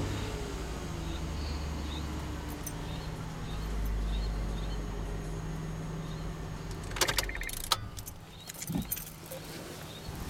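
Honda Odyssey 3.5 L V6 idling steadily just after a jump start. About seven seconds in there is a short jangle of keys and clicks, and the engine's hum drops away after it.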